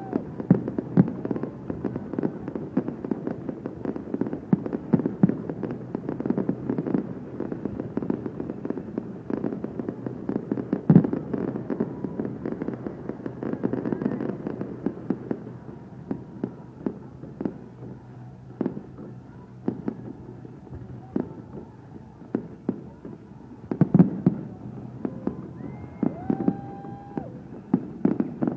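Aerial fireworks bursting. The first half is a dense barrage of bangs and crackles, and the later half has sparser, separate booms. The loudest bangs come about 11 and 24 seconds in.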